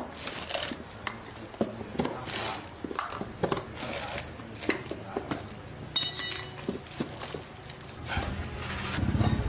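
Metal hand tools clinking, tapping and knocking in irregular strokes during motorcycle tyre work. A low steady motor hum builds up near the end.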